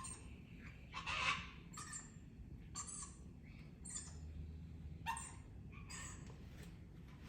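Pet parrots giving short, harsh calls about once a second; the loudest comes a little after a second in.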